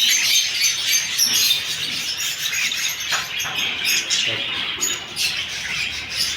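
Many small cage birds chirping and twittering together in a dense, continuous chorus of short high calls.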